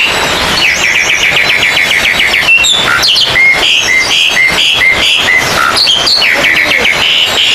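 Oriental magpie-robins singing loudly. A fast run of repeated notes is followed by a series of short whistled notes, about two a second, and then another fast run, over a constant high chatter of other birds.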